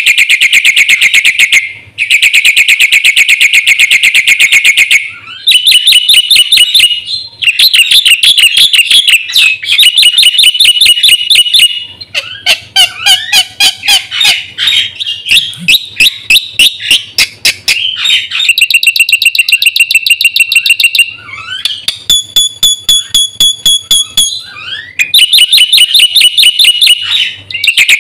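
Black-winged myna (jalak putih) singing loudly in full song. It runs through a series of rapid, rattling trills and varied phrases that carry imitations of other birds' songs, with short pauses between phrases.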